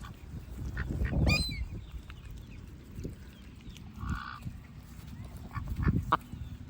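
Ducks calling: a honking call about a second in and a shorter one near the middle, with a few brief calls between.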